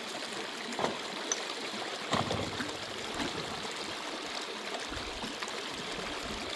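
Water running steadily, with a light knock about a second in and another about two seconds in.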